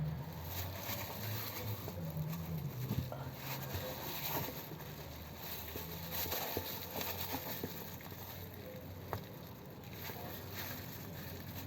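Faint scattered clicks and rustling of hands working, with a low hum that comes and goes.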